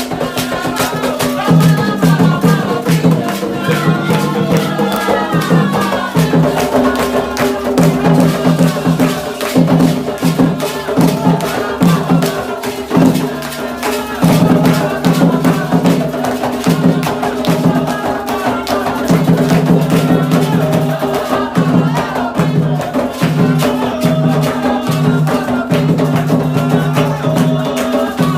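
Candomblé ritual music: hand drums keep a steady pulsing rhythm under rapid rattle and bell strokes, with chanted singing most audible in the first few seconds.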